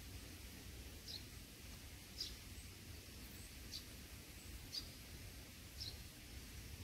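A bird chirping, one short high note about once a second, over a steady low outdoor rumble.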